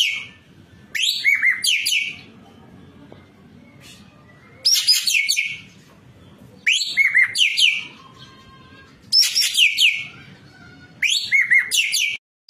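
An ekek keling singing in full voice, repeating a short phrase of quick, high whistled notes and downward glides about every two seconds, five times.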